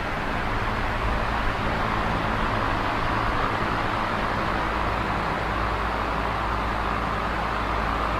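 Small oscillating electric fan running steadily: an even rush of air over a faint low motor hum.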